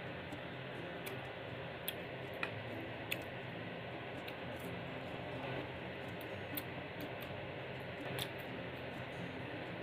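Close-miked eating: chewing crisp lettuce and cucumber, with a few sharp crunches scattered among soft wet mouth sounds over a steady hiss.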